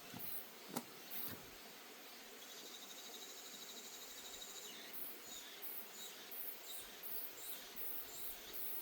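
Forest insects trilling: a steady, pulsing high trill in the middle, then repeated short, very high chirps through the second half. A few footsteps on the wooden deck sound near the start.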